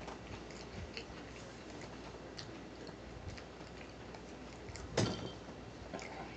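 Close-miked mouth sounds of a man chewing food with his mouth closed: scattered small clicks and smacks, one louder about five seconds in.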